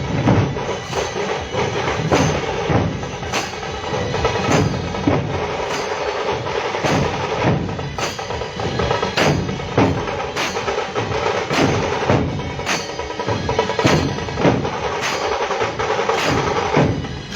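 Drum-led percussion music with a steady, even beat of sharp strikes.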